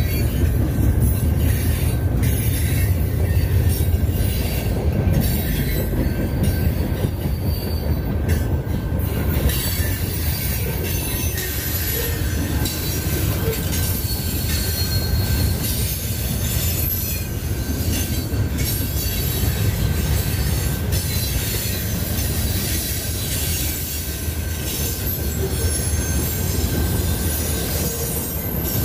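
Freight train rolling past at close range: a steady heavy rumble of cars on the rails with high-pitched wheel squeal over it.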